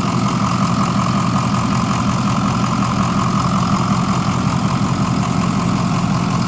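Ford E-450's 6.0-litre Power Stroke V8 diesel idling steadily, and it sounds good.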